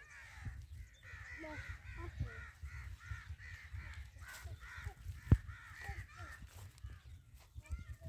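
A bird calling in a fast run of repeated notes, about three a second for around five seconds, over a low rumble of wind on the microphone. A single sharp click about five seconds in is the loudest sound.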